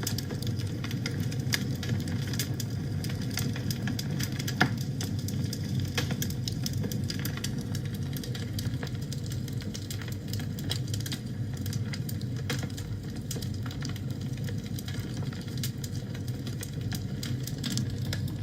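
Wood fire burning in a fireplace: a steady low rumble of the flames with frequent irregular crackles and pops, one sharper pop a little under five seconds in.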